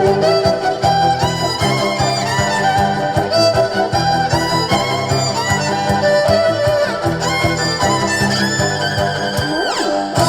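Live violin playing a melody over a band's steady bass line. Near the end there is a fast downward slide in pitch.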